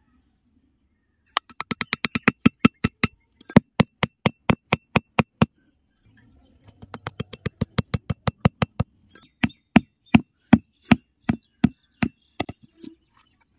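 Small hammer tapping the tops of wooden sticks, driving them into sandy ground as posts. Two runs of quick, sharp taps, with a short pause about six seconds in.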